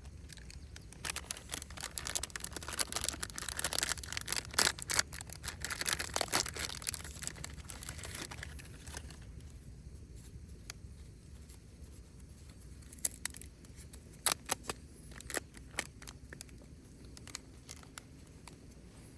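Rustling and crinkling handling sounds, dense for several seconds, then a few scattered sharp clicks later on.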